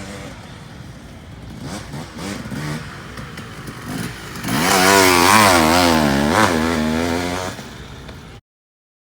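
Motorcycle engine running, with a quieter engine first. Then a much louder one comes close about halfway through, its pitch rising and falling with the throttle, before the sound cuts off suddenly near the end.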